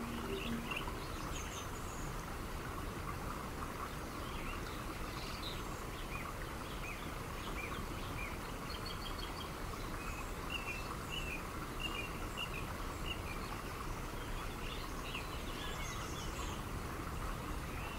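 Birds chirping in short, scattered calls over a steady background hiss, like an outdoor nature ambience, just after a last low music note dies away.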